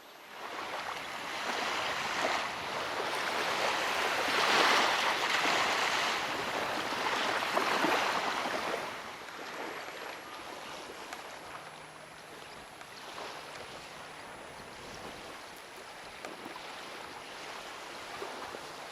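Blizzard storm noise: a rushing whoosh that swells over the first seconds, stays loud for several seconds, then eases to a lower steady rush.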